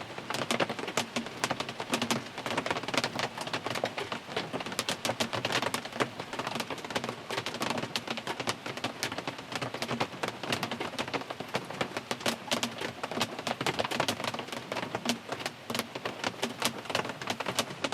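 Heavy rain drumming on a car's roof and windows, heard from inside the cabin: a dense patter of sharp drop impacts over a steady hiss.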